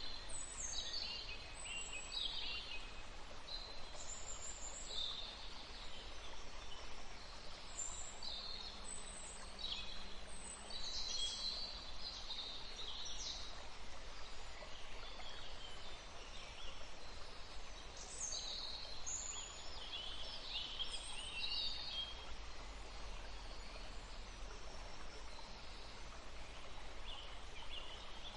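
Songbirds singing in short, high, quick phrases over the steady rush of a forest stream, the birdsong coming and going and thinning out near the end.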